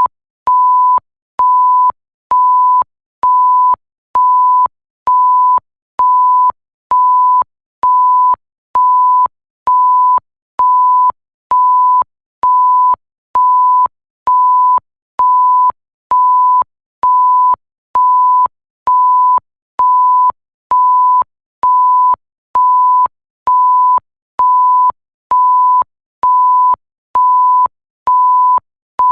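Electronic censor bleep: a single pure tone beeping about once a second, each beep lasting a little over half a second with short silent gaps, steady and even throughout.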